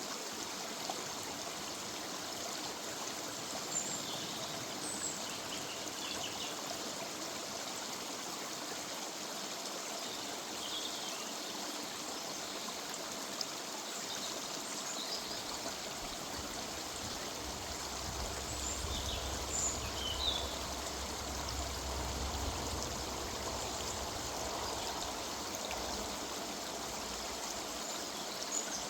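River water running with a steady rush, and short high bird chirps now and then. A low rumble comes in about halfway through and fades out near the end.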